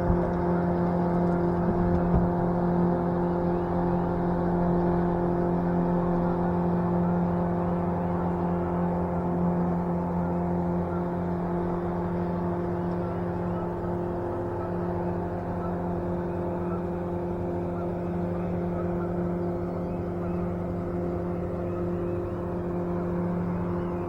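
Boat motor running at a steady speed, one unchanging hum with several overtones that fades a little over time.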